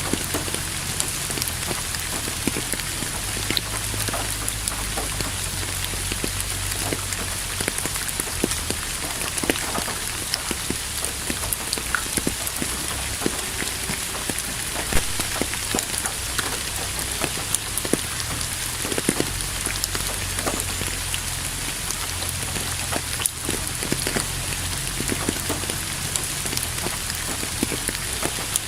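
Steady rain falling on a surface, with individual drops tapping and ticking throughout over a continuous hiss.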